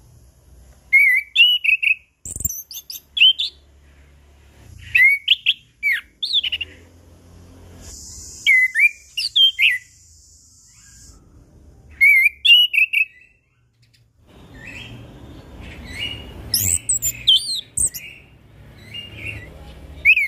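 Chestnut-capped thrush (anis kembang) singing in short phrases of quick rising and falling whistled notes, a phrase every few seconds. A steady high hiss sounds for a few seconds midway.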